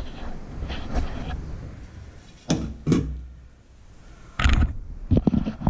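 Handling knocks and clunks of drain and garbage disposal fitting parts being taken apart by hand: a few separate knocks, then a quick cluster of clunks near the end.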